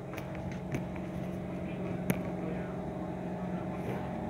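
Steady electric hum inside a Kawasaki Heavy Industries C151 metro train as it starts to pull out of the station, with a single sharp click about two seconds in.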